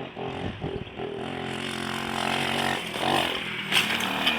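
Dirt bike engine revving up and down as the rider comes toward the jump, with a few sharp knocks near the end.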